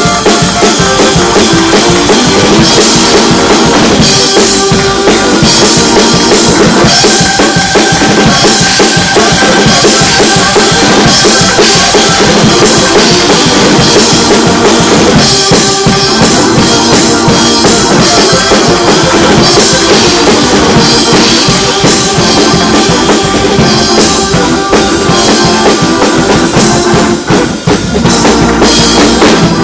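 Loud church praise music driven by a drum kit, with sustained keyboard or instrument tones under the drumming.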